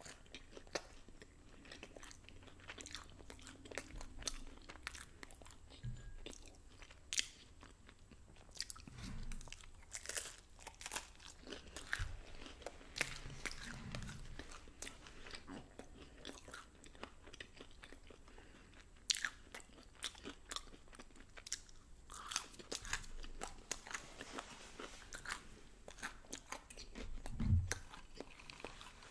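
Close-up biting and chewing of thin-crust pizza, with scattered crisp crunches and mouth clicks, and a brief low hum near the end.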